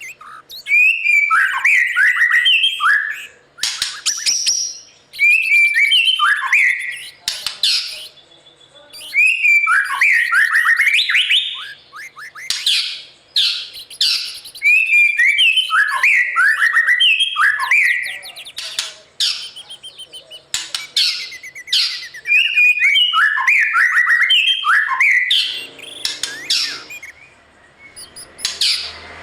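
White-rumped shama singing. It repeats phrases of quick, falling whistled notes, with sharp high notes between them, and starts a new phrase every five or six seconds.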